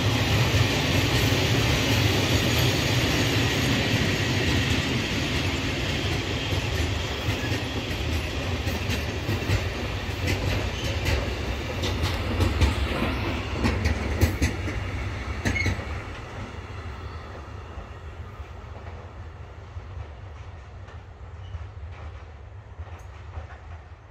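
Diesel-hauled train passing, its wheels clacking over the rail joints; the rumble fades away from about 15 seconds in as the train moves off.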